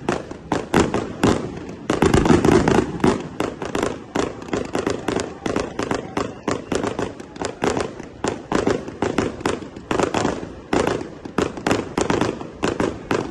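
Aerial fireworks display: shells and cakes going off in rapid, dense volleys of sharp bangs and crackles, several a second, with a heavier barrage about two seconds in.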